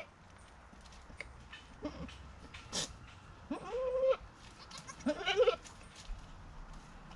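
Goat bleating: two clear calls a second apart, about halfway through, after a faint one earlier, with a single sharp click in between.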